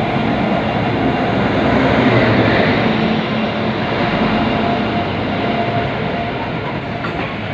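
Train running along the track, a loud steady noise that eases a little toward the end.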